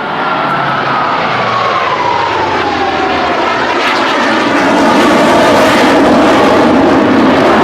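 Jet engine roar from Blue Angels F/A-18 Hornets flying past. A whine falls in pitch over the first three seconds as a jet passes, and the roar grows louder about five seconds in.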